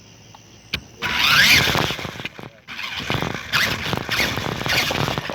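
Toy radio-controlled Jeep Wrangler driving. Its small electric motor and gears whine, starting about a second in, rising and falling in pitch. It stops briefly partway through and then runs again.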